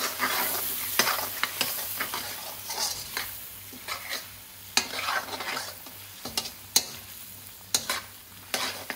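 Peppers, onions and spices sizzling in oil in a karahi while a metal spoon stirs them, scraping and knocking against the pan every second or so over a steady sizzle.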